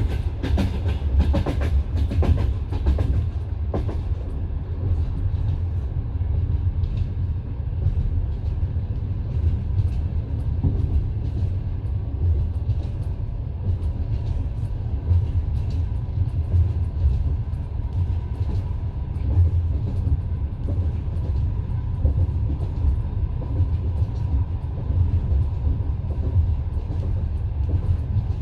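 Passenger train running at speed, heard from inside the carriage: a steady low rumble of wheels on rails, with a quick run of wheel clacks over rail joints in the first few seconds and lighter clicks after.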